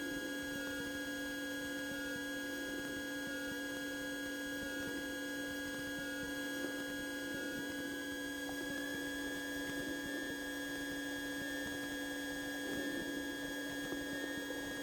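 Cessna 150's engine and propeller drone in the cockpit during takeoff climb-out, a steady hum with several fixed tones. About halfway through the pitch rises slightly, as the engine speeds up.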